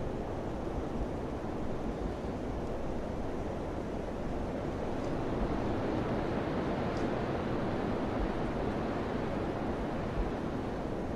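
Summer wind blowing with a steady rushing noise that swells a little midway, with two faint high ticks in the middle.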